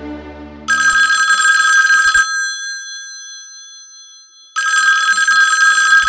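Telephone ringing twice, each ring about a second and a half long with a pause of about two seconds between them.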